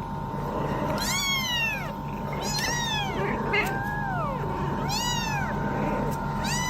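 A cat meowing over and over, about one drawn-out meow a second, with some calls overlapping around the middle.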